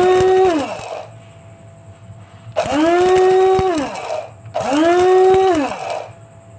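Electric blade coffee grinder switched on in short pulses: three bursts of a high motor whir, each spinning up, holding briefly, then winding down as the button is released.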